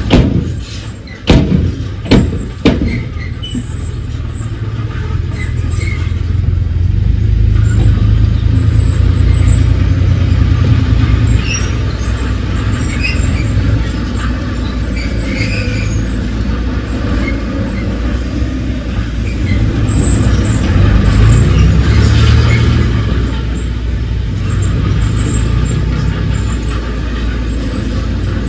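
Heavy diesel earthmoving machinery running steadily, with a few sharp metallic knocks in the first three seconds. Engine pitch briefly rises a little over 20 seconds in.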